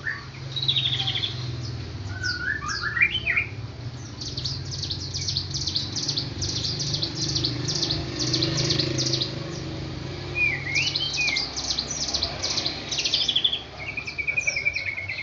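Songbirds chirping: fast runs of short, high chirps, broken by a few lower rising whistled phrases, over a steady low hum.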